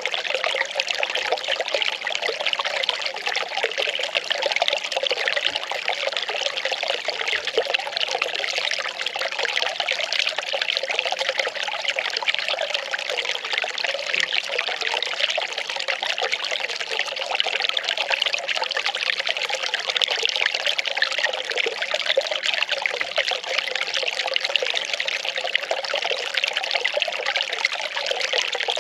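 Well water pouring and trickling in a steady, unbroken flow.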